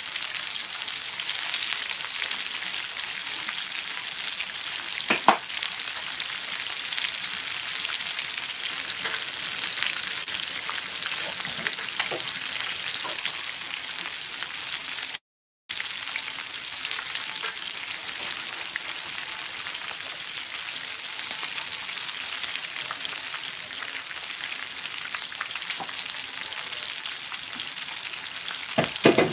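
Breaded perch fillets deep-frying in a skillet of hot fresh oil: a steady, high sizzle. A single sharp click comes about five seconds in, a few knocks sound near the end, and the sound drops out for half a second about halfway.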